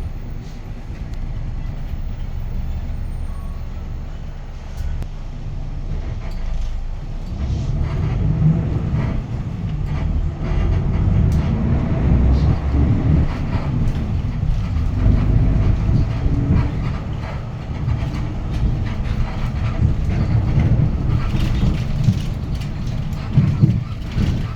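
Interior of a 2019 Hyundai Green City diesel city bus under way: its D6GB diesel engine and road noise running steadily. It grows louder about seven seconds in as the bus picks up speed.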